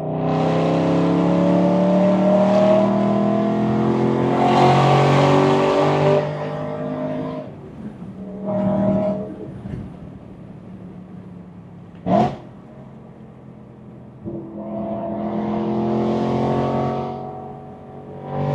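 BMW E92 M3's S65 V8 through a titanium exhaust, heard from inside the cabin. It pulls hard under acceleration with its pitch rising slowly for about six seconds, then lifts off. There is a short burst of revs near nine seconds, a single sharp throttle blip about twelve seconds in, and a second rising pull followed by another quick burst near the end.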